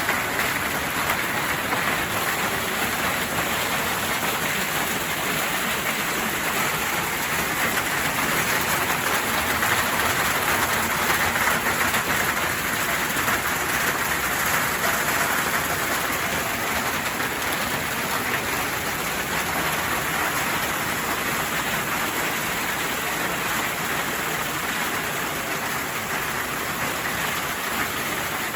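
Hailstorm: a steady, dense rattle of countless hailstones striking the ground and surfaces, a little heavier around the middle.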